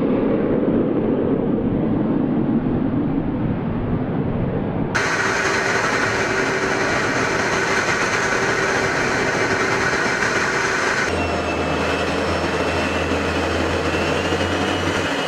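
F-35A Lightning II jet engine, the Pratt & Whitney F135 turbofan, making a loud, steady rush during a flying display. The sound changes abruptly twice, about five and eleven seconds in, and a low steady hum joins it at the second change.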